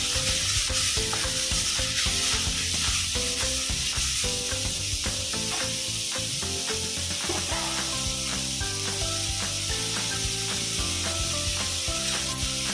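Food sizzling as it is sautéed and stirred in a pot, a steady frying hiss. Background music with a melody and bass line plays underneath.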